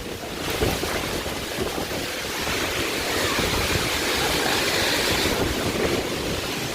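Hailstorm with squally wind: a dense, steady rush of hail striking around and wind buffeting the microphone, building up about half a second in.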